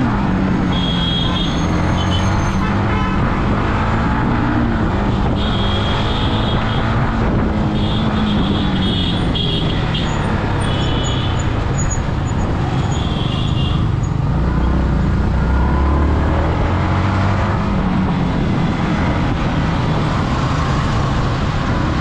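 Yamaha MT-15's single-cylinder engine running at low road speed in traffic, its pitch rising and falling with the throttle. Short horn toots sound several times, most between about 6 and 14 seconds in.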